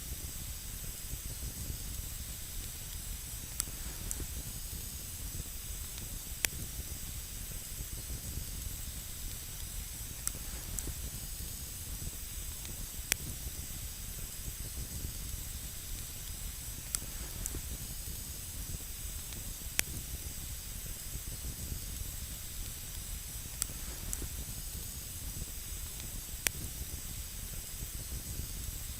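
Wood campfire burning on snow: a steady hiss of flames with sharp crackles and pops every couple of seconds.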